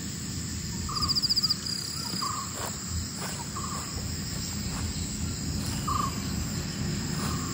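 Forest ambience: a steady, high insect and cricket chorus, with a pulsed cricket trill about a second in, and short calls repeated roughly once a second.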